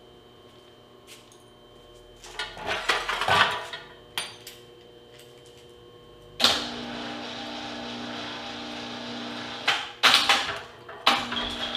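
Shop hoist lifting the appliance hand truck. First comes a clatter of metal knocks, then the hoist's motor starts suddenly with a steady hum and runs for about three seconds. It stops with a few more clanks and starts again near the end.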